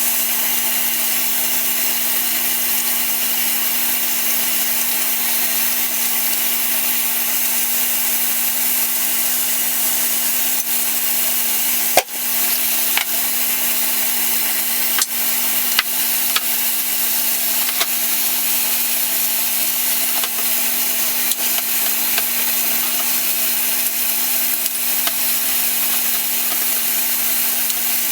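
A power tool running steadily for the whole stretch: an even, harsh hiss over a steady hum, with a few scattered clicks, the sharpest about twelve seconds in.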